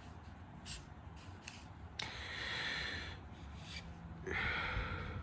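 Alcohol markers rubbing across paper: a couple of quick strokes, then two longer rubbing passes about two seconds and four seconds in.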